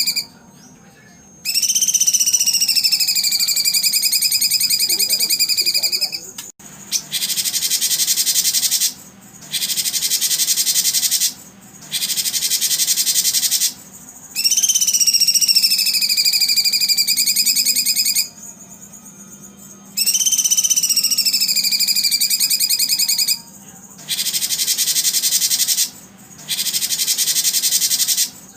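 Songbird song: long held high whistles alternating with bursts of very rapid, dense trilling, each about two seconds long, separated by short pauses.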